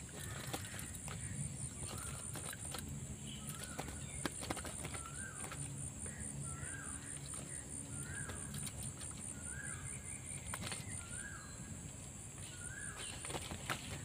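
A bird call repeated about once a second, a dozen or so short notes that each bend up and then down in pitch, over a steady high insect drone. A few clicks and knocks from handling the wooden cage trap.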